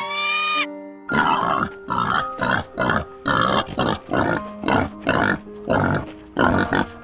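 An animal grunting: a run of about a dozen short, rough grunts, roughly two a second, over background music with held notes. A brief high-pitched call sounds at the very start.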